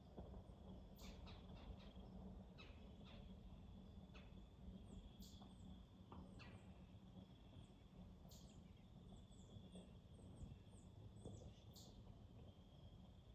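Faint woodland ambience: scattered short, high bird chirps and chips, a steady thin high insect trill, and a few light clicks.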